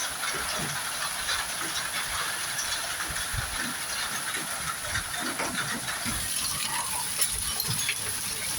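Steady hiss of heavy snow falling, with scattered low thuds.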